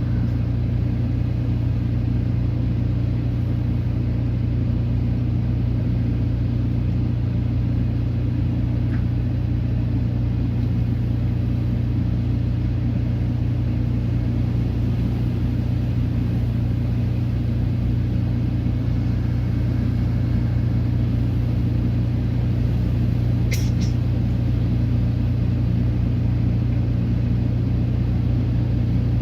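Car engine idling steadily, a constant low hum heard from inside the cabin, with one brief click about 23 seconds in.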